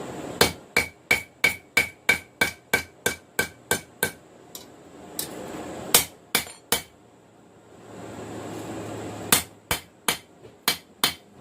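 Hand hammer striking a hot steel knife blade on an anvil during forging: a run of about a dozen ringing blows at roughly three a second, then a few scattered blows, a pause, and a second short run near the end.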